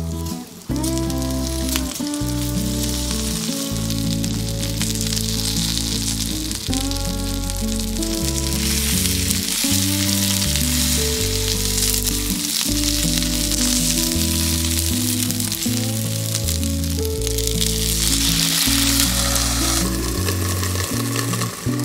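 Food sizzling in a frying pan, the sizzle swelling after a few seconds and dying away near the end, under background music with a stepping bass line.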